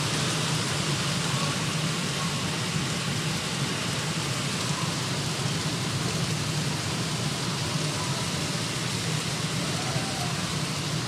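Hail falling steadily: a dense, even hiss of hailstones pelting down, with no let-up.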